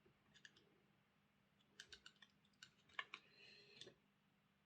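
Faint, scattered clicks and light metal taps of small tools working on a model locomotive's motor casing as a bearing is knocked out from the inside. The sharpest tap comes about three seconds in, followed by a brief scrape.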